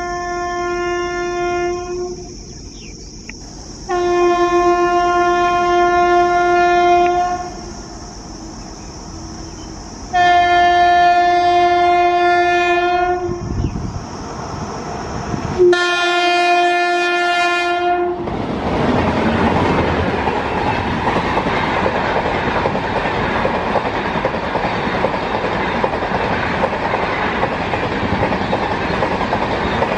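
An approaching Indian Railways locomotive sounds its horn in four long, steady blasts, the first already going at the start. About eighteen seconds in, an LHB-coached superfast express rushes past at speed, its wheels clattering over the rail joints in a loud, continuous din.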